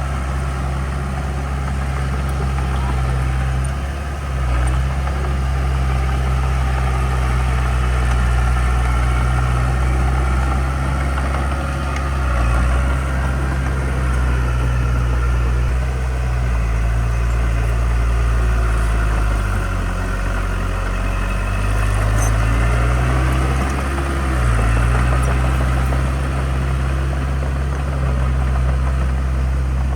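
Heavy construction-equipment diesel engine running steadily, its pitch sagging about two-thirds of the way through and then picking back up.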